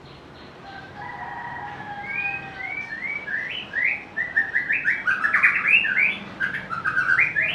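White-rumped shama singing: a few soft whistles about a second in, then a fast run of varied short whistled notes that grows louder and denser over the last few seconds.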